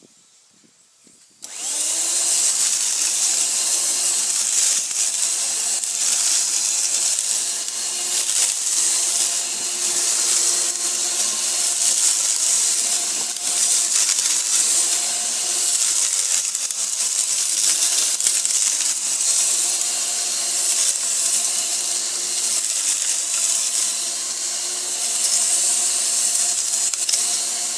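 McGregor MCELM1231 electric lawnmower running, its motor and spinning blade making a loud, steady whine with a hiss. It starts abruptly about a second and a half in, and the pitch wavers slightly.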